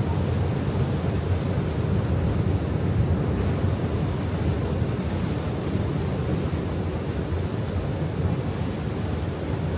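Steady low rush of wind on the microphone and moving water, with no clear strokes or tones.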